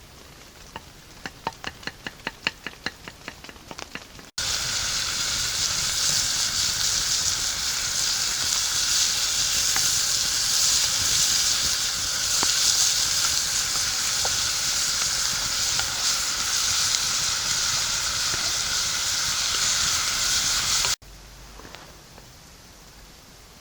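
Food sizzling loudly in hot oil, frying steadily for most of the stretch, cut in and out abruptly. Before it comes a quick run of knocks, about six a second.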